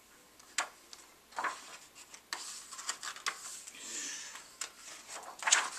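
Pages of a picture book being turned and handled: a handful of brief papery rustles and soft taps, spaced about a second apart.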